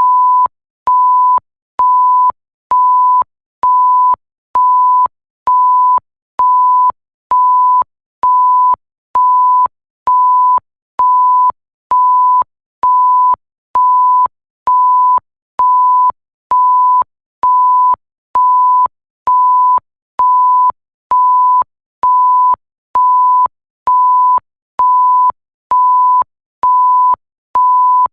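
Electronic bleep tone: a single steady pure tone repeating as short beeps of about half a second, a little more than one a second, evenly spaced with brief gaps, and a faint click at the start and end of each beep.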